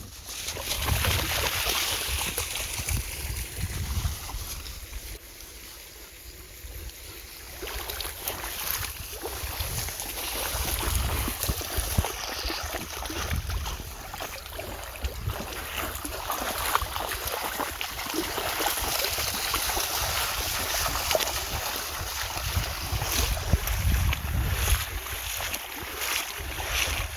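Golden retrievers splashing about in a stream, over the steady rush of running water, with gusts of wind rumbling on the microphone.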